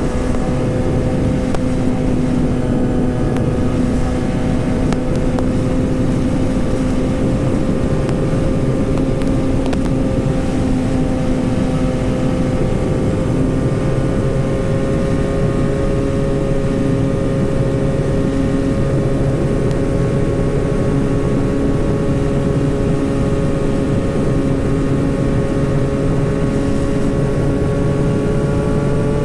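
2008 Yamaha YZF-R6's 600 cc inline-four running at steady high revs under way, its pitch climbing slowly as speed builds, with wind noise underneath.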